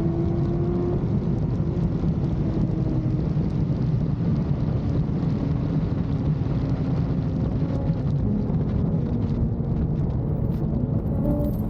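BMW S1000RR inline-four motorcycle exhaust, a steady low engine drone with tones that drift slowly up and down in pitch.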